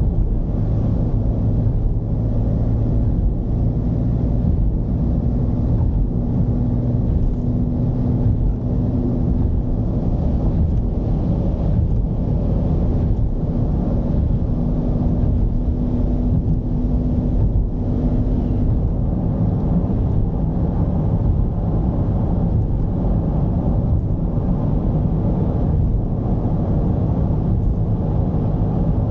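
Mercedes-Benz V220 diesel engine running under way, with road noise: a steady low drone whose engine note holds level for long stretches and shifts slightly about two-thirds of the way through.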